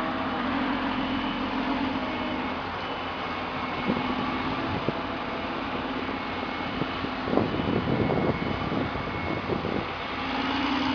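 An engine running steadily, with scattered knocks and a burst of clatter about two-thirds of the way through.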